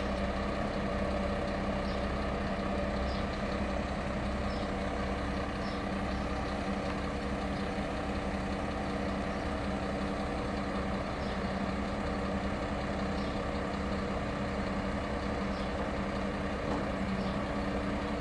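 Scania 420 truck's diesel engine running steadily at a constant speed, driving the Effer 720 loader crane's hydraulics.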